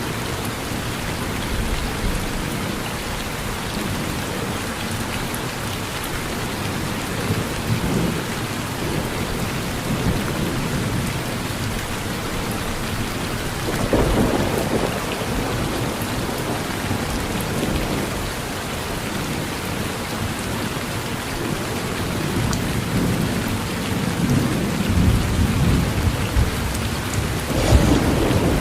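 Steady rain falling on a porch, with thunder rumbling low several times. There is a swell about halfway through and a louder, longer rumble near the end.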